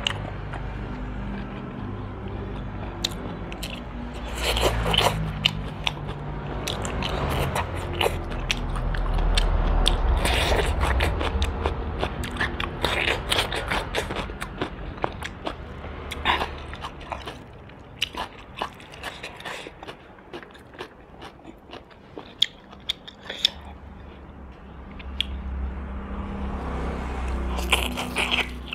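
Close-miked biting and chewing of roast duck, with many sharp crunching clicks from the crisp skin.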